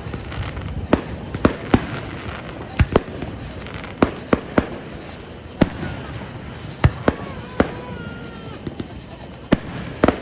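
Fireworks bursting: a dozen or so sharp bangs at uneven intervals, some close together in pairs and threes.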